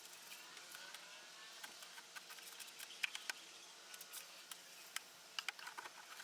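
Faint scattered clicks and ticks over a quiet background hiss, the sharpest about three seconds in and a cluster near the end.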